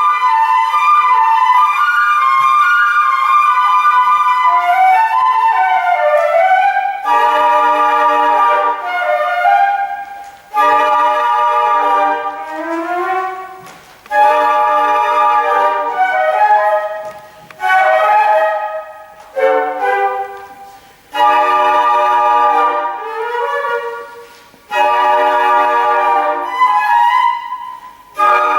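A flute ensemble playing chords in short phrases. Each phrase starts together with a sharp attack and fades before the next entry.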